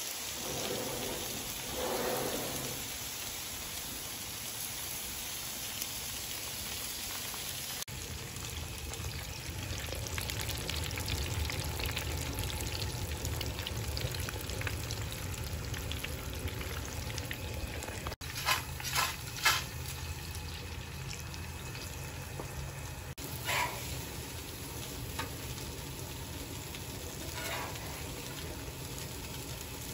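Hot-oil frying throughout: venison burger patties sizzling on a Blackstone flat-top griddle, and in between, sweet potato fries bubbling in a deep fryer basket. A few sharp clicks come about two-thirds of the way through, and single ones later.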